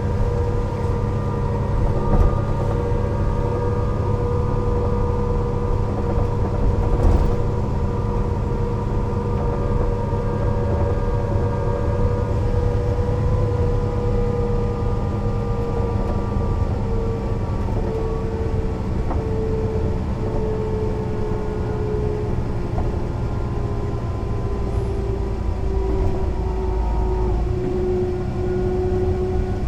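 Mercedes-Benz O 405 NÜ low-floor bus running under way: a steady engine drone with a drivetrain whine that slowly falls in pitch as the bus eases off speed. There is a short knock about seven seconds in, and the low engine note changes near the end.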